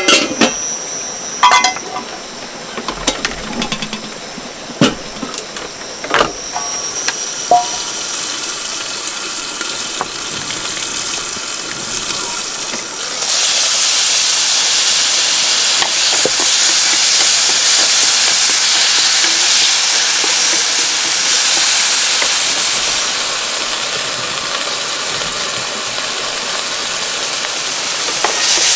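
A few sharp clinks and knocks over a low hiss, then about halfway through a sudden loud sizzle as chicken giblets go into the hot oiled frying pan; the giblets keep frying with a steady sizzle that eases a little and swells again near the end.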